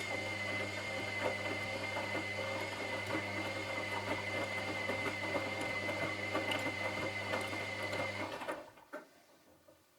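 Washing machine drum motor running with a steady hum and a high whine, with small clicks and rattles of the turning drum, then stopping about eight seconds in, a pause in the wash cycle's tumbling, followed by one brief knock.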